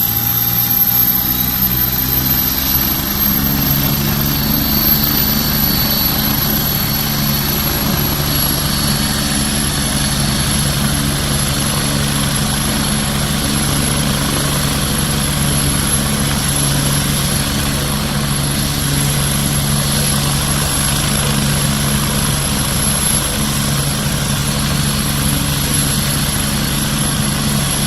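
Emergency air ambulance helicopter running close by: a steady rapid rotor beat under a high, thin turbine whine, with the pitch rising slightly in the first few seconds.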